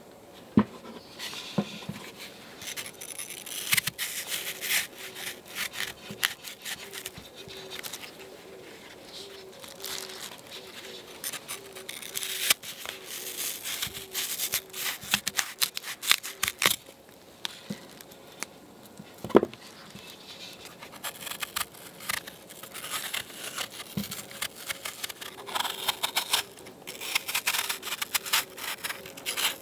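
Close-up handling sounds: irregular clusters of rustling, crinkling, scraping and light clicks, with one sharper knock about two-thirds of the way through.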